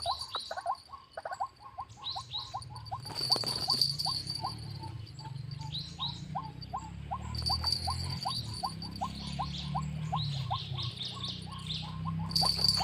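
Wetland animal calls: a steady run of short, clipped calls, about three a second, with scattered high chirps over them and a steady high-pitched tone behind.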